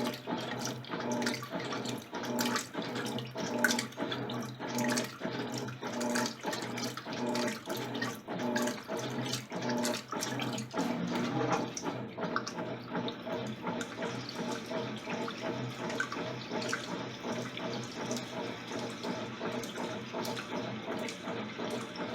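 Electrolux LTC10 washing machine working a load of jeans in water: water churning with a regular pulsing motor hum about every 0.7 seconds. The pulsing fades and the sound turns steadier and duller about halfway through.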